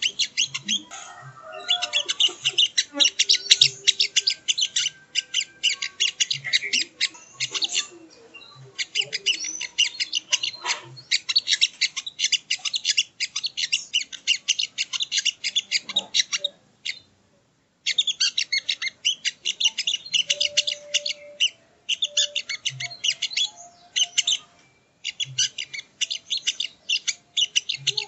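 Sogok ontong (little spiderhunter) calling in a rapid, high chattering stream of many short notes a second, broken by a few brief pauses.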